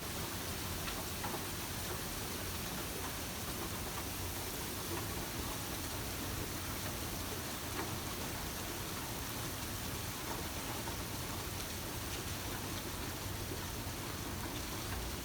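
Steady rain from a tropical storm, falling hard with a constant hiss and scattered drop patter.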